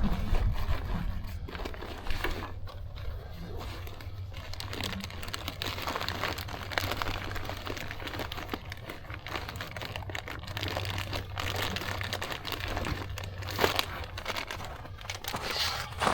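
Paper or wrapping being crumpled, crinkled and torn by hand: a continuous crackle of small rustles while fire-starting material is readied.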